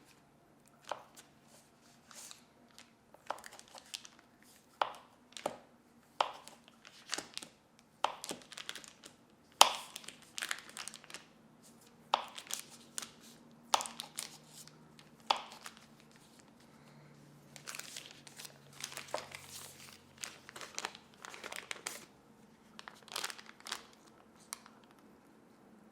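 Paper or packaging being crinkled and handled, in irregular crackles with occasional sharper tearing-like rustles, one louder crackle about ten seconds in.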